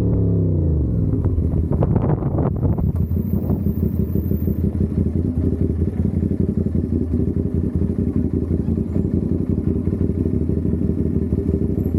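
CFMOTO 450SR's parallel-twin engine dropping in revs as the bike slows, with a few clicks about one to two seconds in, then idling steadily.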